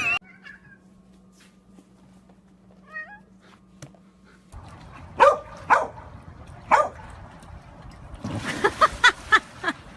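A household pet giving a series of short cries: one faint gliding call, then several brief cries spaced about half a second to a second apart, with a cluster of cries over a rustling noise near the end.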